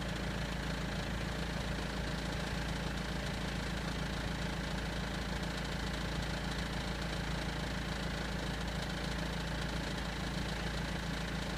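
BMW M47 four-cylinder common-rail diesel idling steadily with a rattle from the engine, which the owner suspects comes from the crankshaft pulley rather than the timing chain.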